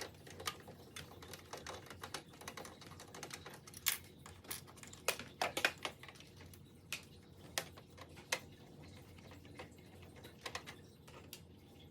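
Irregular light clicks and taps of a Phillips screwdriver being worked on screws in a printer's housing, with a small cluster of clicks midway.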